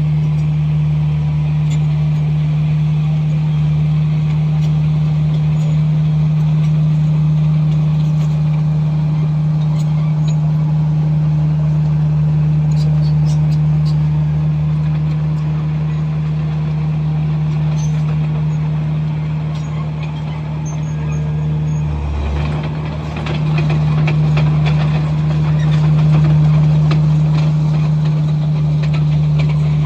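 Komatsu bulldozer's diesel engine running steadily with a strong low drone. About two-thirds of the way through it dips briefly, then picks up again with added clatter.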